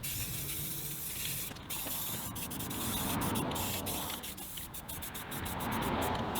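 Aerosol spray-paint can hissing as paint is sprayed onto a truck wheel, in several bursts with short breaks between them.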